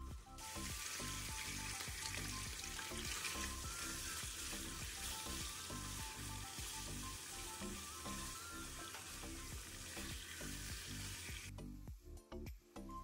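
Marinated chicken breast pieces dropping into hot oil in a nonstick wok and sizzling as they are stirred with a spatula. The sizzle starts sharply just after the start and cuts off near the end.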